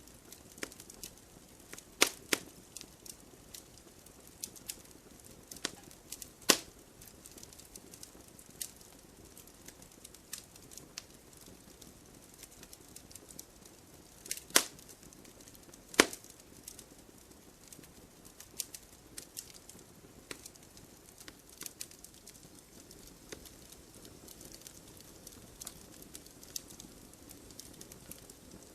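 Firewood burning: a steady soft hiss with continual small crackles, and a handful of sharp, loud pops standing out over them.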